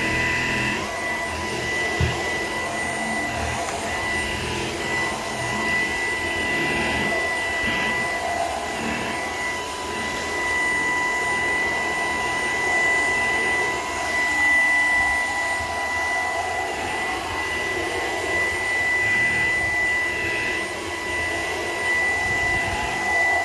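Shark PowerDetect vacuum running as a hand vacuum on stairs: a steady motor whine with a high tone over a rushing suction noise that shifts a little as the nozzle moves. A light knock about two seconds in.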